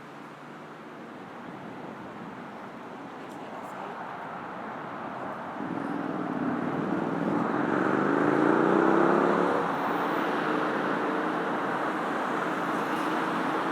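Road traffic: a motor vehicle approaches and accelerates past, its engine note rising from about six seconds in and loudest around nine seconds, then settling into steady traffic noise with a held engine tone.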